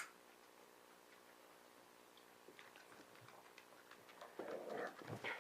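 Puppies moving and scuffling about, faint, with one sharp click at the very start, a few small ticks in the middle and louder scuffling in the last second.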